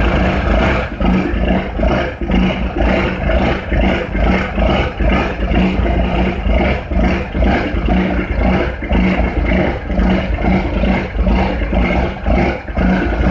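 Heavy diesel engine running loud and rough, with an even pulsing beat about twice a second. The sound cuts off abruptly at the end.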